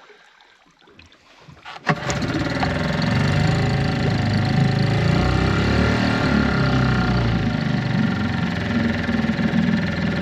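Suzuki 4 hp outboard motor starting about two seconds in, then running steadily.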